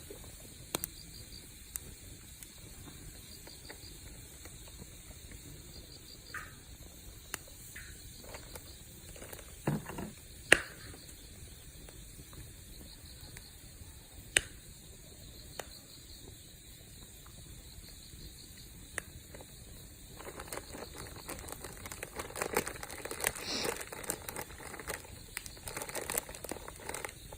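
Wood campfire crackling, with scattered sharp pops and a busier run of crackle from about twenty seconds in, over a steady background of chirping insects.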